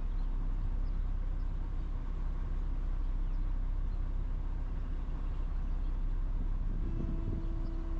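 Steady low rumble of a running vehicle, with a short steady tone joining near the end.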